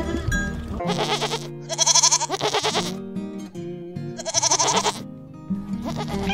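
Goats bleating three times in quavering calls, the middle one loudest, over background music.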